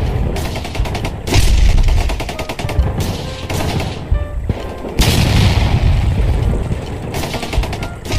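Battle sound effect: loud bursts of rapid machine-gun fire mixed with deep booms, starting afresh several times.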